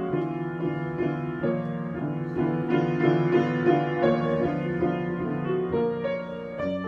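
Solo piano improvisation: chords in the middle and low range with melody notes moving above them.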